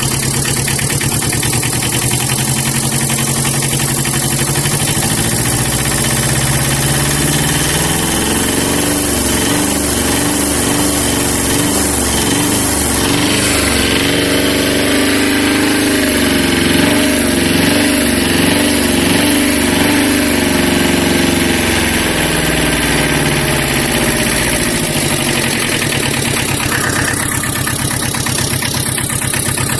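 Vehicle engine running, its pitch climbing over the first ten seconds or so, held high with a pulsing beat, then falling back to a steady idle about three-quarters of the way through.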